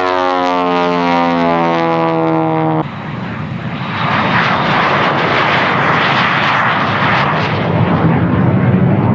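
Aerobatic airplane's engine passing close, its pitch sliding down as it goes by, cut off abruptly about three seconds in. Then a loud rushing aircraft noise that swells and holds.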